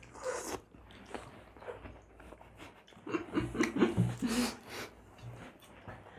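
Mouth noises of people eating ripe Rupali mangoes: chewing, biting and wet smacking clicks. Muffled voice sounds come from about three to five seconds in, as if through a full mouth.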